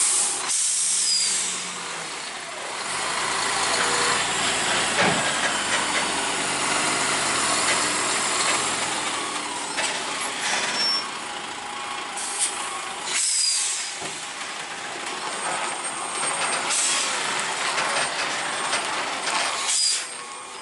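Heavy diesel trucks with trailers running and working through a sharp bend, their engines droning, with several short bursts of air-brake hiss, about four in the second half.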